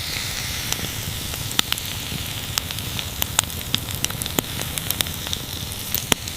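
Wood campfire crackling: a steady hiss with frequent irregular sharp pops and snaps.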